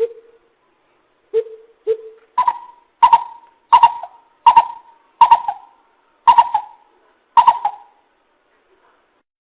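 Coucal decoy calls: three deep hoots in the first two seconds, then a slower series of about eight higher, sharper notes a little under a second apart, each with a short ringing tail.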